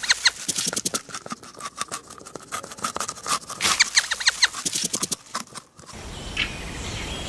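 Rapid, high-pitched squeaking calls from a small animal, many short falling squeaks in quick succession. They stop abruptly about six seconds in, giving way to a steady hiss with a few single calls.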